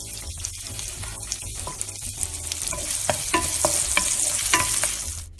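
Ginger, garlic and red chilies sizzling in hot oil in a wok while a wooden spatula stirs them, with scattered scrapes and taps of the spatula against the pan. The sizzle grows louder about halfway through.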